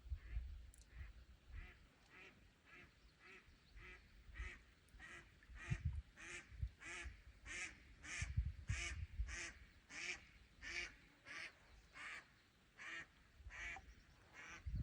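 A bird calling in a long, evenly spaced series of about two to three calls a second, growing louder and then fading, with low thumps of wind or handling on the microphone.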